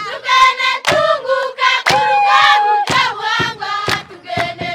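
A group of voices singing together, one long note held near the middle, over a sharp beat struck about once a second.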